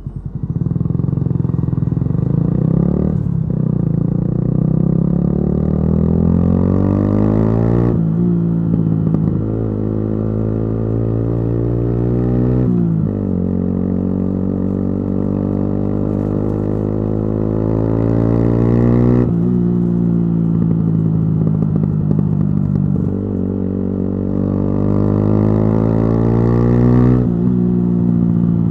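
Yamaha YZF-R125's single-cylinder four-stroke engine through a modified exhaust, ridden under acceleration. The engine note climbs in pitch and drops sharply at each of several gear changes.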